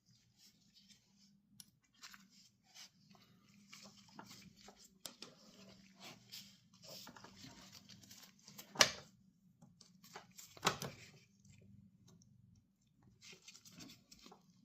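A motorcycle drive chain and its master link being worked together by hand: scattered small clicks and rustles, with two sharper clicks about nine and eleven seconds in.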